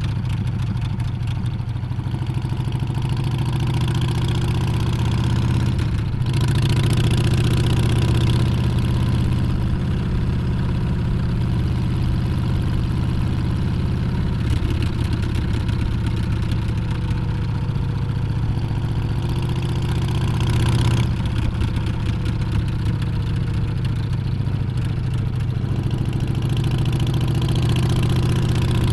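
Harley-Davidson Street Bob's Milwaukee-Eight 114 V-twin engine and exhaust running steadily, with the engine note rising and falling gently as the throttle changes and a brief dip about six seconds in.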